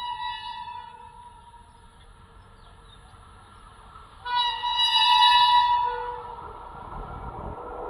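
Locomotive horn sounding two blasts. The first trails off within the first second; the second, louder one starts about four seconds in and lasts under two seconds. The rumble of the approaching train grows louder near the end.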